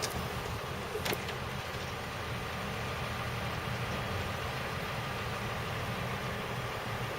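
Diesel engine of a standing KiHa 30 railcar idling with a steady low hum, with a brief click about a second in.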